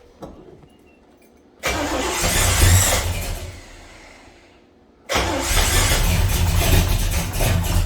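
Chevrolet 396 big-block V8 firing up during start attempts after a rebuild. It catches suddenly about a second and a half in, runs for a moment and dies away. Then it fires again about five seconds in and keeps running.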